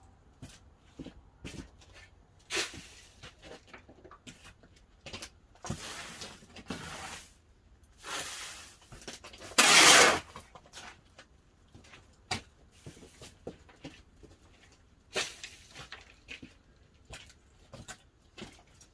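Pine-log fire in a wood-fired kiln's firebox, crackling and popping with many sharp irregular snaps. Several louder rushing noises break in, the loudest about ten seconds in.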